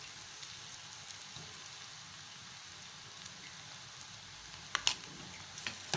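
Sautéed onions and green chillies sizzling steadily in hot oil in a pan, with a couple of short sharp clicks near the end.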